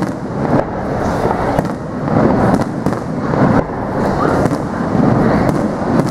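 Aerial firework shells bursting overhead: several sharp bangs, roughly a second apart, over a steady noisy background.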